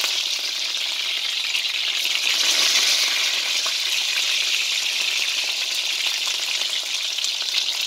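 Chicken breast strips frying in olive oil in a wok: a steady sizzling hiss with fine crackling, swelling a little about two and a half seconds in.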